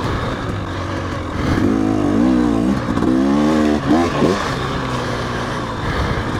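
Dirt bike engine running on a trail, its pitch rising and falling several times through the middle as the throttle is worked on and off.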